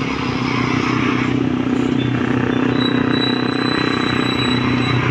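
Vehicle engine running steadily on the road, with a steady low hum. A faint high steady tone joins about three seconds in.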